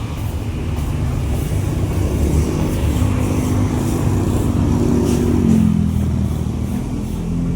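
Steady engine noise from a vehicle passing close by, its pitch dropping around five seconds in.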